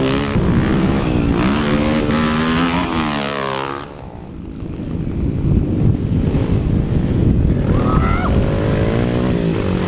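Yamaha TT-R pit bikes' small single-cylinder four-stroke engines revving up and down on a dirt track, the pitch climbing and falling with the throttle. The engine noise drops away about four seconds in, then builds back up.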